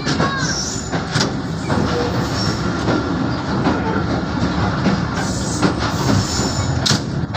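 Passenger train coaches rolling along the track, wheels knocking over rail joints, with a short wheel squeal near the start.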